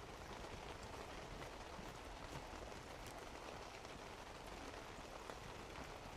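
Steady rain falling, with a few scattered drops tapping now and then.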